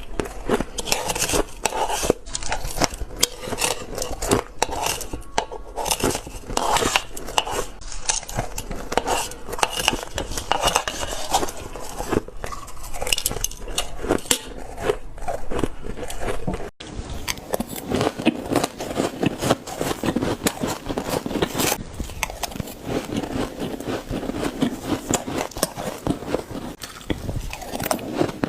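Shaved ice being bitten and crunched off a spoon close to the microphone: dense, rapid crackling crunches mixed with the spoon clinking and scraping against the dish. There is a brief break about 17 seconds in.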